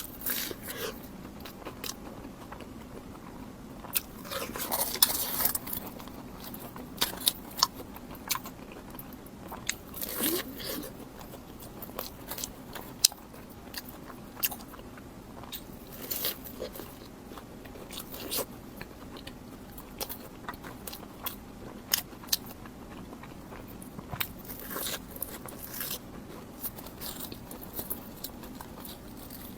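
Close-up mouth sounds of someone biting and chewing crunchy deep-fried bread: sharp crunching bites and short bursts of crackling chewing, with wet mouth clicks in between.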